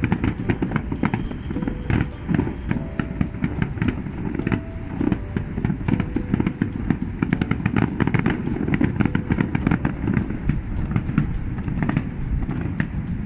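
Aerial fireworks display going off: a dense, rapid string of bangs and crackles, with no letup.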